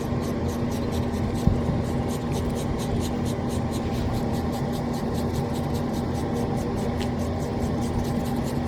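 A steady machine-like hum with a fast, even ticking running through it.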